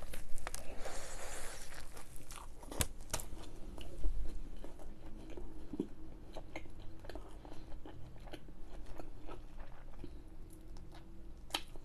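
A person biting into and chewing a Burger King cheese triple Whopper close to the microphone. There is a longer noisy stretch in the first two seconds, then scattered small clicks and smacks of the mouth.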